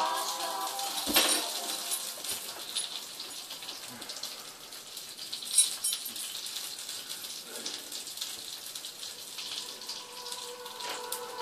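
Recorded rain, a soft pattering hiss full of fine ticks, playing in the gap before the next song; two sharp clicks stand out, about a second in and about halfway through, and music comes back in at the very end.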